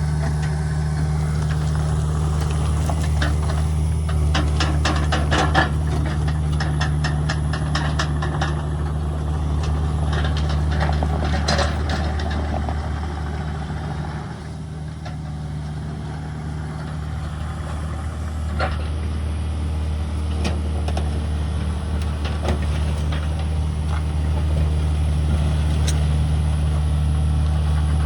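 Diesel engine of a heavy earth-moving machine running steadily at work, with a stretch of rapid metallic rattling and clanking in the first half and a few single knocks later.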